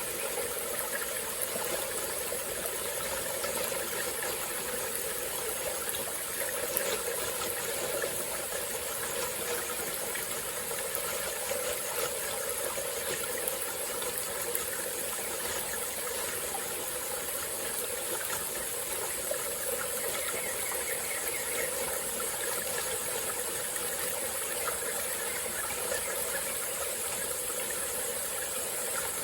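Small forest stream flowing steadily over rocks, a continuous gurgling rush, with a steady high-pitched hiss above it.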